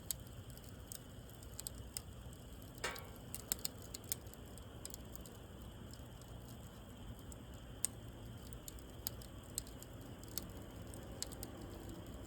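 Wood fire (bonfire) burning and crackling, with irregular sharp pops and snaps.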